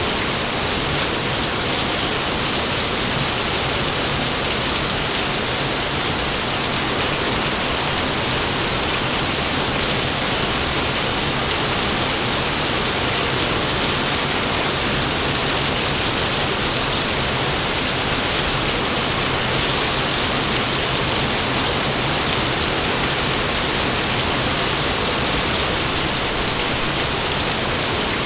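Heavy rain falling steadily, a dense, even hiss with no thunderclaps.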